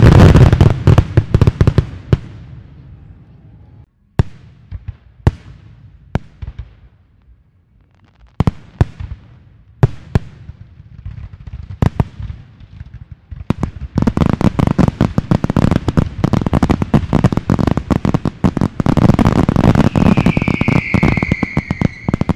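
Aerial fireworks bursting. A dense barrage of bangs and crackle at the start dies away within about two seconds. Scattered single reports follow, then another dense barrage from about midway to the end.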